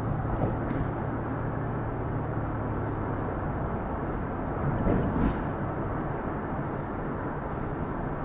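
Steady engine and road noise heard from inside a moving vehicle's cabin, with a louder bump about five seconds in.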